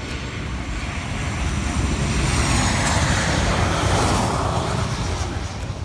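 Jet airliner passing low overhead on its landing approach: its engine noise swells to a peak about three seconds in and then eases off, with a faint high whine falling in pitch.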